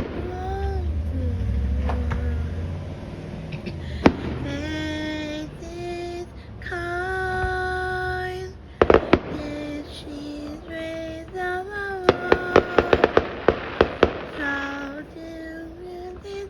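Fireworks going off: a low rumble, a single sharp bang about four seconds in, a few bangs near the middle and a rapid run of crackling pops near the end, over show music with a singing voice holding long notes.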